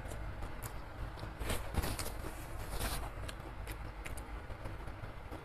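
Close-up chewing of a crispy fried cabbage fritter (bakwan kol): crackly crunches, busiest about one and a half to three seconds in, over a steady low rumble.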